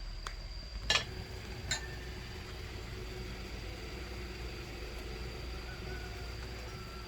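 Crockery knocking as bowls and dishes are set out for a meal: three sharp knocks in the first two seconds, the second the loudest, over a steady low hum.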